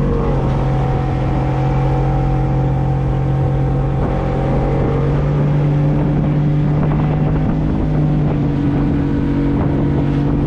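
Boat's outboard motor running steadily under way, its pitch stepping up slightly about halfway through.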